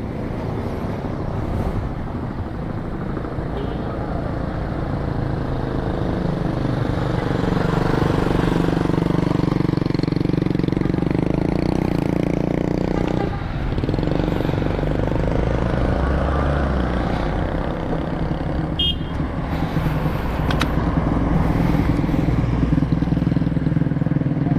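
Yamaha RX-King's single-cylinder two-stroke engine running through an underslung aftermarket expansion-chamber exhaust as the motorcycle is ridden, the revs rising and falling with a brief dip about halfway through.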